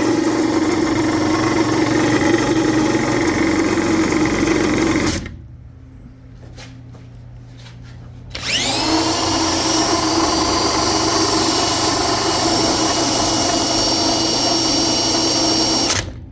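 A power tool spins a differential pinion twice: a rising whir that settles into a steady whine for about five seconds and cuts off, then after a few seconds' pause runs up again and holds for about eight seconds. The noise is taken by the owner as the sign of bad pinion bearings.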